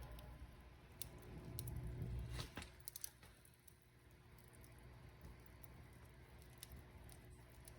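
Wood fire crackling faintly: a low rumble of flames that dies down about two and a half seconds in, with scattered sharp pops and crackles, a quick cluster of them around three seconds in.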